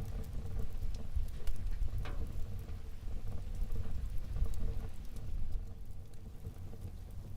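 Wood fire crackling in a fireplace: scattered sharp pops and snaps over a low, steady rumble of the burning fire, with one louder snap about two seconds in.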